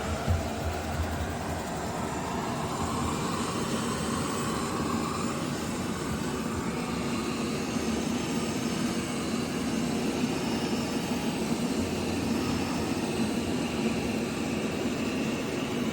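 Robot vacuum running, a steady whirring hum of its suction motor and brushes.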